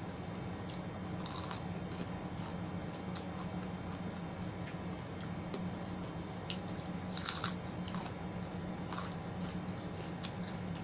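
Close-miked eating: chewing and biting with scattered wet mouth clicks and a few louder crunches, the loudest about seven seconds in, over a steady low hum.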